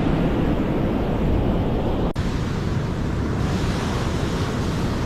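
Atlantic surf rushing steadily with wind buffeting the microphone, with a brief break about two seconds in.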